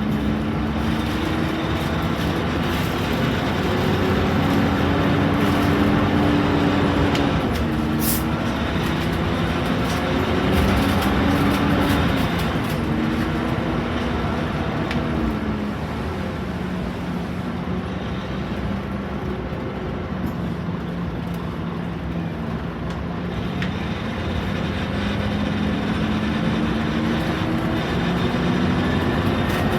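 Scania K230UB Omnilink bus's diesel engine pulling the bus along, its note climbing and then dropping in steps as the automatic gearbox changes up. It eases to a lower, steadier note for several seconds, then climbs again as the bus accelerates.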